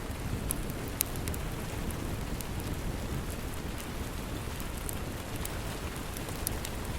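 Steady rain with scattered sharp crackles and pops from a wood fire in a fireplace.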